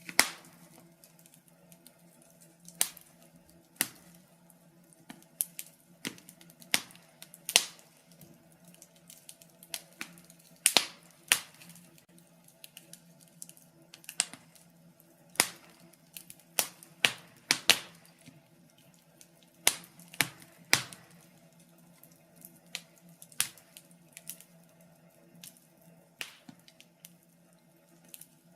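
Wood fire in a fireplace crackling: irregular sharp pops and snaps, one or two a second, some much louder than others, over a faint steady low hum.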